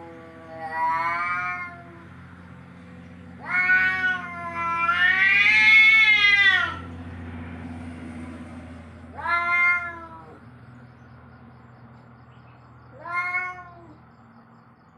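Cat yowling in a run of drawn-out, wavering cries, five in all, the longest about two seconds in the middle: angry, territorial caterwauls of the kind used to drive cats away. A faint steady hum lies underneath.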